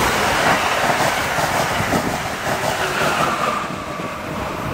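Amtrak passenger train passing at speed: a steady rush of wheels on rail with a whine that drops in pitch. It eases off slightly near the end.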